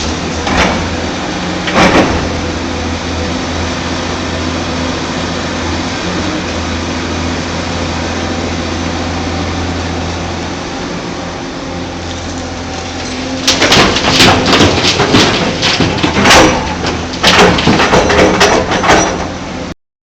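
Heavy excavator's diesel engine running steadily. About two-thirds of the way in, a loud run of knocks and clattering begins, the sound of material hitting steel, and it stops suddenly just before the end.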